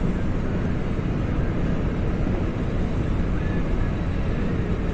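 Steady road and engine noise of a car driving at speed, heard from inside the cabin: an even low rumble with no changes.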